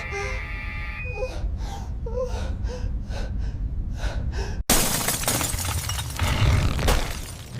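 A person breathing in quick, ragged gasps, about two to three a second. About two-thirds of the way in, a sudden loud crashing rumble cuts in and carries on.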